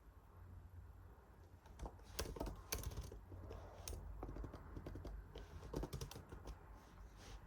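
Typing on a computer keyboard: irregular runs of keystroke clicks that start about two seconds in, with short pauses between bursts.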